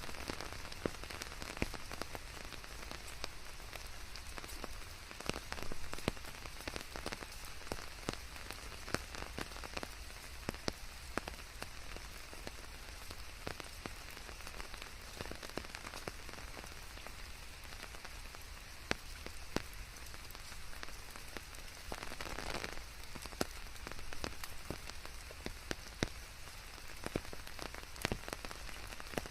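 Steady rain, with many individual drops tapping sharply on a nearby surface among the even hiss, and a brief louder rush about three-quarters of the way through.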